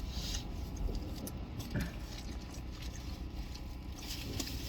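Quiet eating sounds: scattered small taps, scrapes and crinkles of utensils and a takeout container, over a steady low hum.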